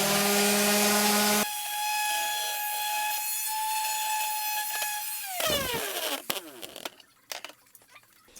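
Electric power sander running against wood. The grinding stops about a second and a half in and the motor runs free with a steady whine. It is switched off about five seconds in, the whine falls as it spins down, and a few light clicks and knocks follow.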